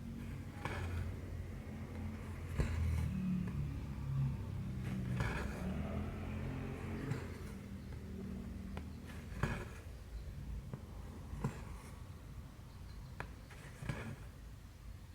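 Cross-stitching: needle and thread pulled through the cross-stitch fabric, a short sharp pop or rustle every second or two, over a low rumbling hum.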